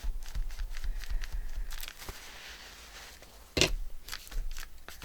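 Craft materials handled on a work table: light paper rustles and small taps, with one louder knock about three and a half seconds in.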